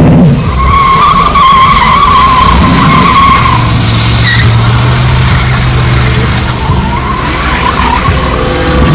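A car doing a burnout: its tyres squeal loudly against the pavement over a hard-running engine. The squeal is strongest in the first few seconds, then the engine's steady drone comes forward.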